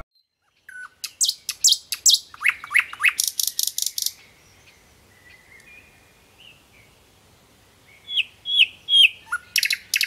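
Nightingale singing. It gives a fast run of sharp repeated notes, then a few quiet drawn-out whistles, then three rising notes and another quick run of notes near the end.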